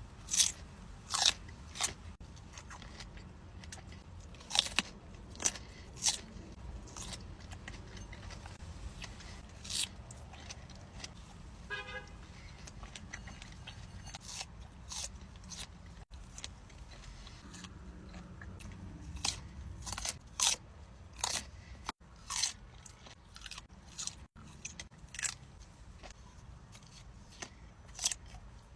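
Close-up fruit eating: crunchy bites and chewing, heard as irregular sharp crackles every second or so.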